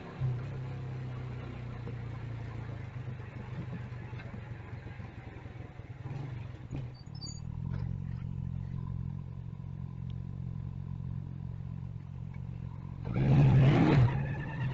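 Motorcycle engine running steadily, its low hum starting abruptly at the very beginning. Near the end a much louder, noisy burst lasts about a second.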